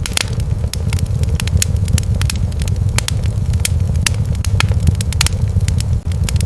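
Wood fire in a fireplace crackling, with many sharp, irregular pops over a steady low roar of the flames.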